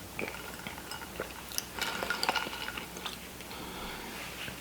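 Cutlery clinking and scraping against a dish as food is scooped up, in a few light taps with a busier patch about two seconds in.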